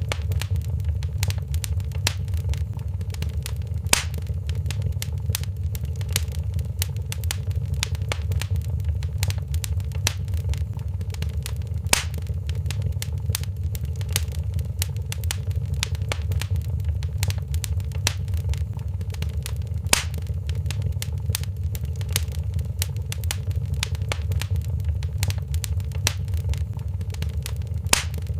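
Wood fire crackling in a fireplace: a dense run of small crackles over a steady low rumble, with a louder sharp pop about every eight seconds.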